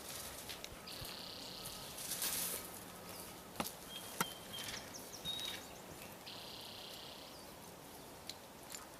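Quiet outdoor background with two stretches of high buzzing, a couple of short high whistles like bird chirps, and two sharp clicks about halfway through.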